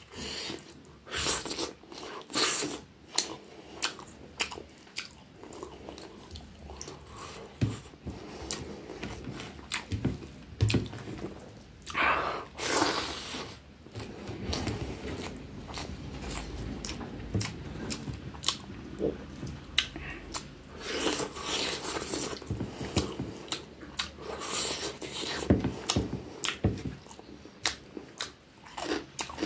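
A person chewing mouthfuls of rice and curry eaten by hand, close to the microphone: many short wet smacks and clicks of lips and mouth.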